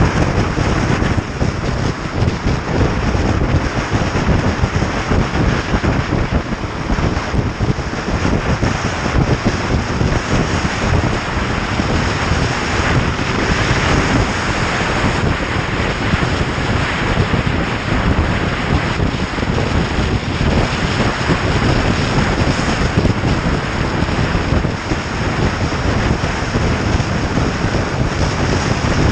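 Wind buffeting the microphone of a moving motorcycle, a loud steady rush with rapid flutter, with the bike's engine and road noise beneath it.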